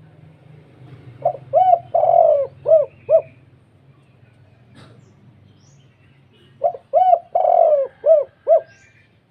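Spotted dove (tekukur) cooing in a deep, full voice: two phrases of five coos each, the middle coo of each drawn out, about five seconds apart.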